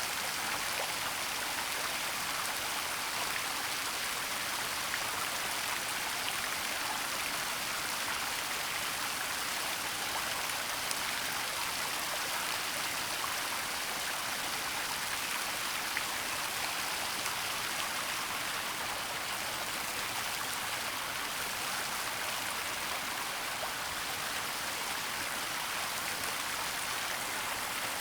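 Waterfall and flowing water: a steady, even rush of falling water, strongest in the hiss range, with faint scattered drips and splashes.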